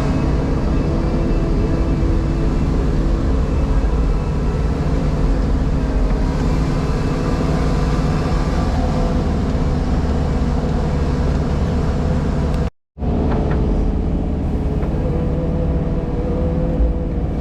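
The JCB Pothole Pro's diesel engine and hydraulics running steadily, heard from inside the cab: a constant low drone with a few held tones. The sound cuts out for a split second about 13 seconds in, then carries on at slightly different pitches.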